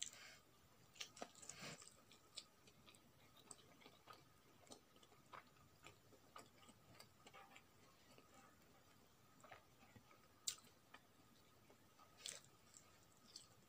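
Faint chewing and mouth sounds of a person eating a boiled egg by hand: soft, scattered wet clicks and smacks, with a sharper click a little past the middle.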